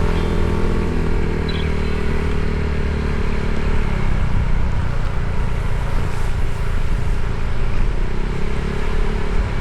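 Motorcycle engine running while riding on the road. Its steady note fades about four seconds in, leaving a rough rumble.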